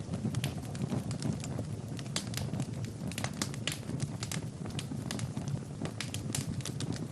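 Fire in a fireplace crackling, with frequent irregular sharp pops over a steady low rumble of the flames.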